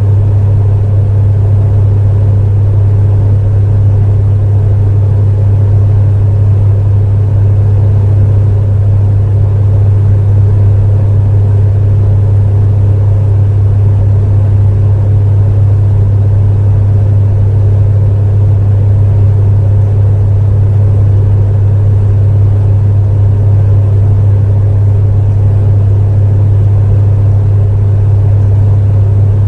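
Space heater running steadily: a constant low hum with a whooshing fan noise over it, unchanging throughout.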